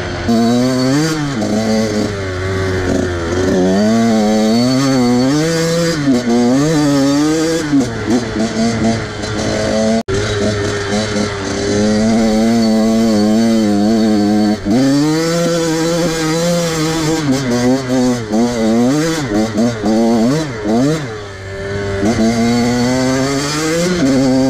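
Small off-road vehicle engine being ridden hard, revving up and down again and again, with the pitch rising and falling every second or two.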